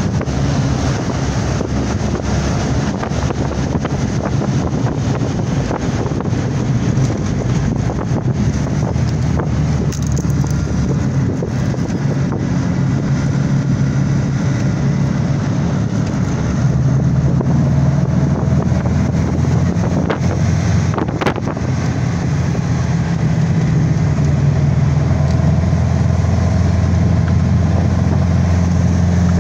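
Engine of an open vintage car running under way, with wind rushing over the microphone. The engine note grows louder about halfway through and again near the end.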